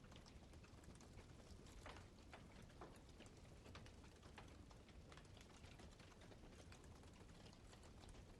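Campfire burning, its wood crackling faintly with irregular small pops.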